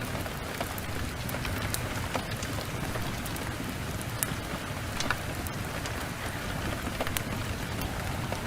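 Heavy rain falling steadily, with many scattered sharp ticks of individual drops.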